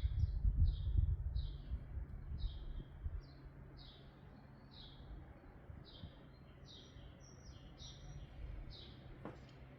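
A bird chirping over and over, short high chirps about twice a second, with a low rumble during the first three seconds and a steady low hum underneath.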